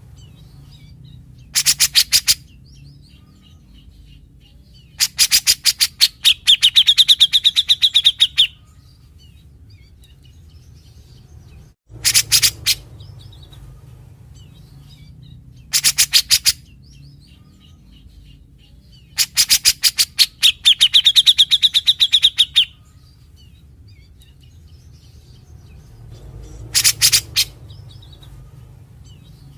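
Grey-cheeked bulbul (cucak jenggot) calling in about six bursts of rapid, harsh, stuttering notes. Twice a burst runs into a held rasping note of about two seconds: the bird's characteristic 'besetan'. A steady low hum runs underneath.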